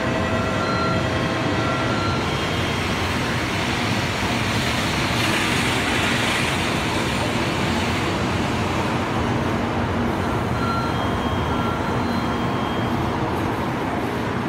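N700-series Shinkansen train rolling slowly alongside the platform as it pulls into the station, a steady running noise that swells a little around the middle.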